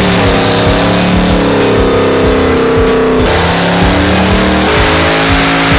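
Chevrolet Performance LSX 376-B15 twin-turbo V8 revving hard under load on a chassis dyno. Its pitch climbs for about three seconds, drops sharply, then climbs again.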